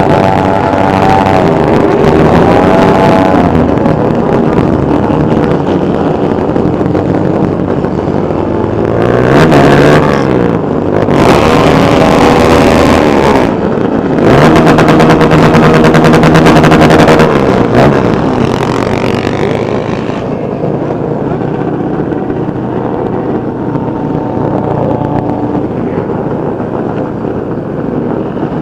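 Motorcycle engines running and revving as a group of bikes moves along, with several loud rev-ups in the middle, then a steadier running sound near the end.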